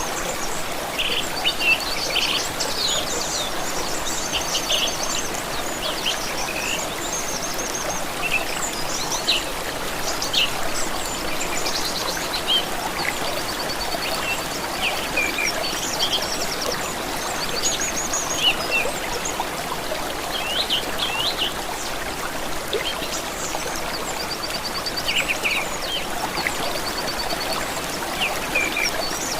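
Running water of a small stream, steady, with several songbirds chirping and trilling over it throughout.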